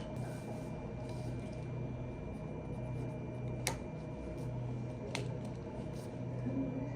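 Steady low hum of room noise, with two sharp clicks about a second and a half apart midway through.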